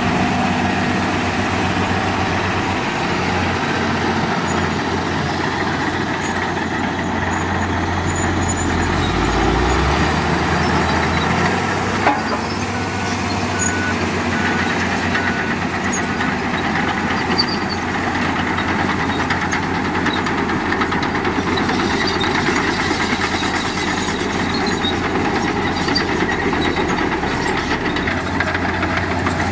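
Diesel engines of heavy road-building machinery running steadily, with a single sharp knock about twelve seconds in.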